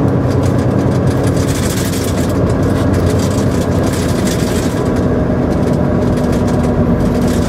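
Semi truck's diesel engine running steadily at low speed, a constant low hum with a steady tone.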